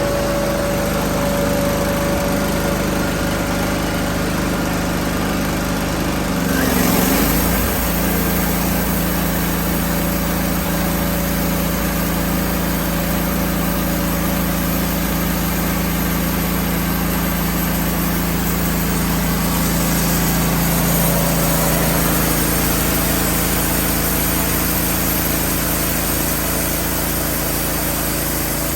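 Wood-Mizer LT15 band sawmill running steadily while sawing a cedar log, its engine note shifting about seven seconds in and then holding steady again.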